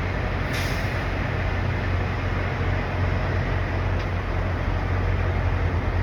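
Steady low rumble of idling diesel truck engines, with a short hiss about half a second in.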